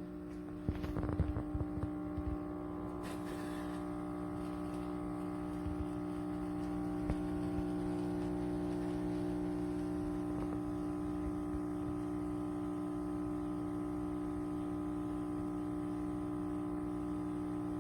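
KitchenAid KF8 fully automatic espresso machine brewing the coffee: a steady pump hum that grows slightly louder, with a few knocks and rattles in the first couple of seconds as the machine works.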